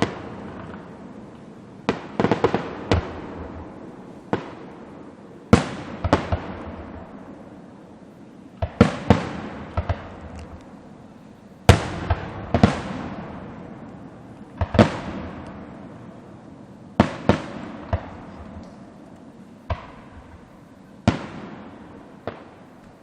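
Aerial fireworks shells bursting, irregular booming bangs, some in quick pairs and clusters, each rolling off in a long echo. The recording is from a cell phone's microphone.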